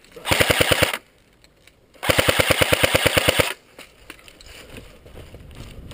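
Airsoft gun firing on full auto in two bursts of rapid, evenly spaced shots, a short one just after the start and a longer one about two seconds in.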